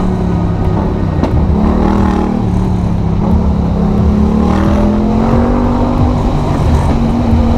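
A vehicle engine running under heavy wind and road noise, its pitch holding fairly steady and creeping slowly upward as it gains speed.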